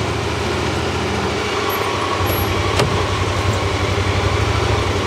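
Vehicle engine running, growing louder about two seconds in as it pulls ahead, with a single short click a little under three seconds in.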